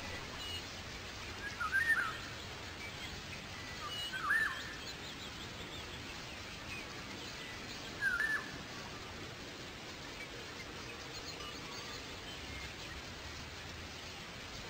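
A bird calling three short chirps, about two seconds apart and then four, with fainter bird calls scattered through a steady outdoor background noise.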